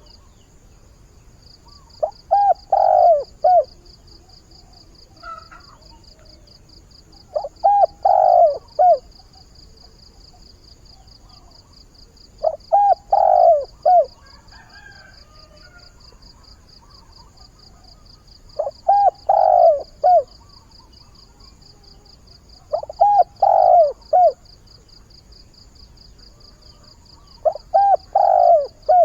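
A decoy spotted dove cooing: six phrases of a few low coo notes each, roughly every five seconds. A steady, fast, high-pitched pulsing runs underneath.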